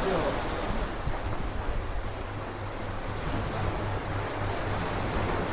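Sea surf washing steadily against the shore, with wind buffeting the microphone as a low rumble.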